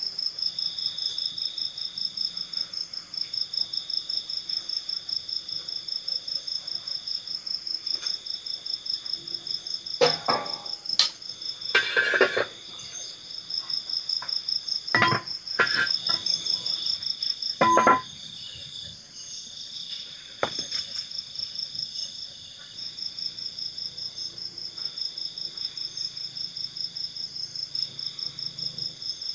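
Insects chirping in a rapid, steady pulse at two high pitches, with a few short knocks and clatters in the middle.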